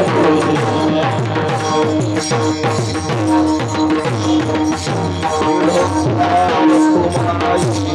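Devotional bhajan accompaniment between sung lines: quick hand-drum strokes with sharp high strikes over held steady instrumental tones.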